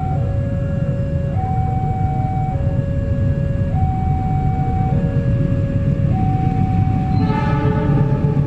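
A train passing with a heavy rumble, under a two-tone warning alarm that switches between a lower and a higher note about every second. Near the end a train horn sounds.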